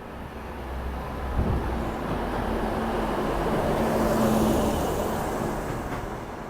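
A passenger train moving past the platform: rumbling running noise that builds to a peak about four seconds in and then fades, over a steady low hum.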